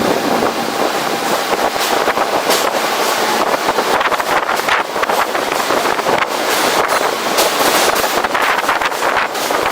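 Wind buffeting the microphone of a camera on the roof of a moving subway train, a loud, gusty rush over the train's running noise.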